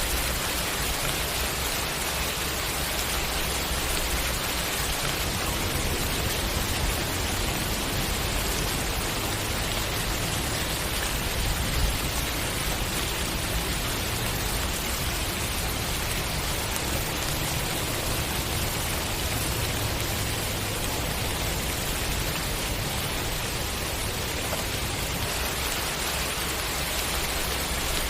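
Steady rain falling, an even hiss of many drops with a low rumble beneath it.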